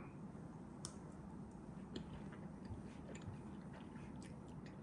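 Faint chewing of a mouthful of beef steak, with a few soft clicks about a second apart.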